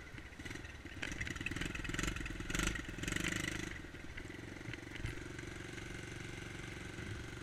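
Dirt bike engine running, louder from about one second in until nearly four seconds, then running steadier and quieter.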